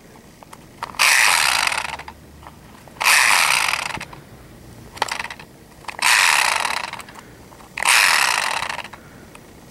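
Chainsaw recoil starter cord yanked four times, each a rasping, ratcheting pull of about a second, with the engine not catching between pulls. The saw will not start, which the owner puts down to overheating.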